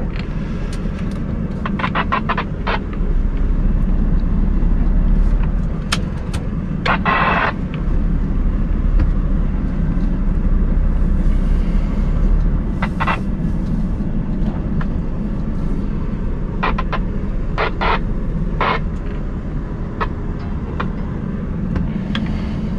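Scania R580 truck's V8 diesel engine running steadily, with a few short clicks and knocks and a brief rattle about seven seconds in.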